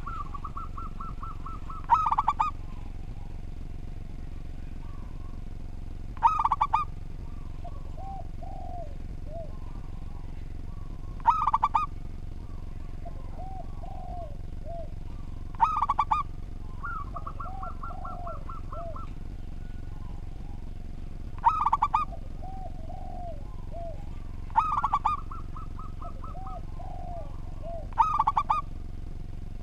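Zebra dove (perkutut) cooing: seven loud, short coos about four to five seconds apart, with softer rolling trills and coos in between. A steady low hum runs underneath.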